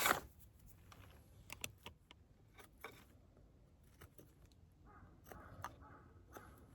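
Small handling noises: a short scraping rustle at the start, then scattered light clicks and taps, and soft rustling from about five seconds in.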